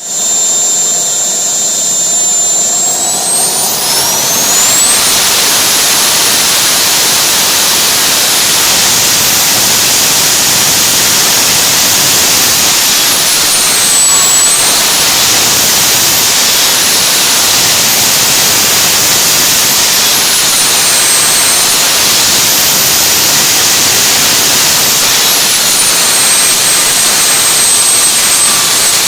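GR220 small turbojet engine running with an open test exhaust: a loud jet rush with a high turbine whine. The whine climbs steeply about four seconds in as the engine accelerates toward 115,000 rpm, holds high, dips and recovers a few times, then settles lower near the end.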